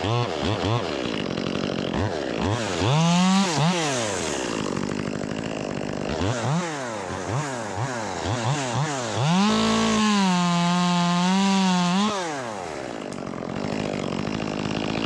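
Ported Echo 25 T top-handle two-stroke chainsaw being revved in a series of short throttle blips, with a longer rev about three seconds in and the throttle held wide open for about two seconds near the ten-second mark before dropping back.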